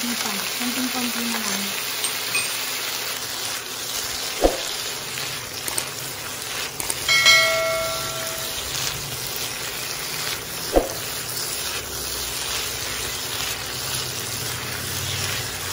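Chayote squash and onion sizzling steadily as they are stir-fried in a wok, with two sharp knocks, one about four seconds in and one near eleven seconds. About seven seconds in comes a click and a ringing bell chime of about a second from a subscribe-button animation sound effect.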